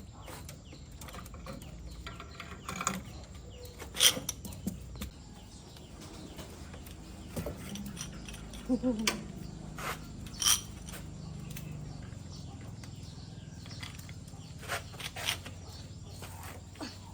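Scattered clinks and knocks of tools and metal parts, the sharpest about four seconds in and again about ten seconds in, over a low steady hum.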